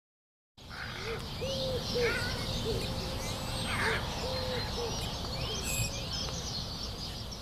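Birds calling over a steady background hiss, beginning about half a second in after silence: a low call, each rising and falling, repeated many times, with higher chirps and whistles from other birds.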